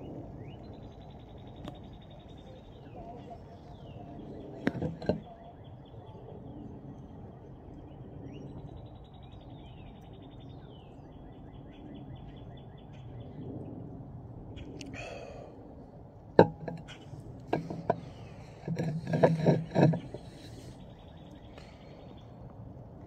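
A small songbird singing a series of rapid, even trills, one after another, through the first half. Later comes a single sharp click, and then a short run of knocks and clatter.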